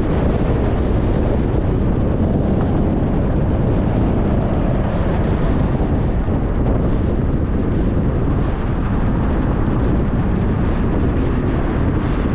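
Steady low rumble of a car on the move: road, tyre and engine noise at an even loudness, with faint light ticks and rattles over it.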